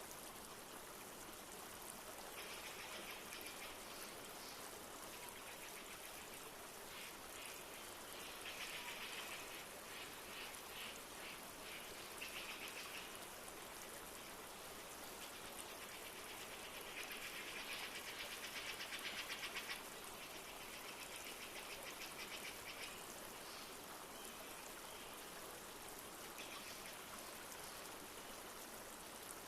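Steady rush of a flowing river, with birds calling over it in several bursts of rapid trilling, the loudest about two thirds of the way through.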